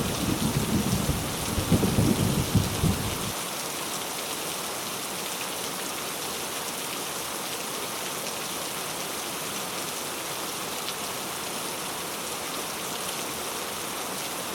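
Heavy rain falling steadily. A low rumble of thunder runs through the first three seconds and then cuts off abruptly, leaving only the even hiss of the rain.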